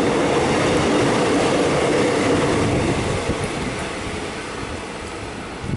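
X'Trapolis electric suburban train running through the station at speed without stopping, running express. The noise is steady for about three seconds, then fades as the train moves away.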